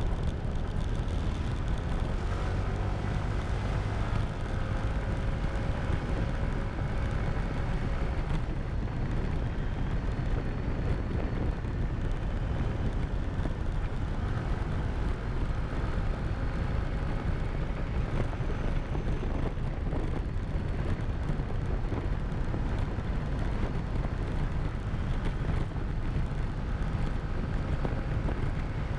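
Motorcycle riding along, its engine running under a heavy, steady low rumble of wind on the camera microphone, with a faint engine note that rises and falls gently during the first several seconds.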